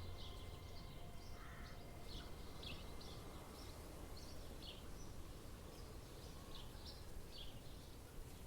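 Small birds chirping in a forest: short, high chirps a few times a second, over a faint low background rumble.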